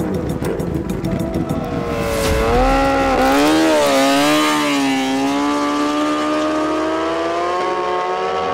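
Two superbikes, a Bimota Tesi H2 and a Ducati Panigale V4S, launching in an eighth-mile drag race. Their engines rev hard at high rpm from about two seconds in; the pitch wavers about a second later, then holds high and rises slowly as they run down the strip.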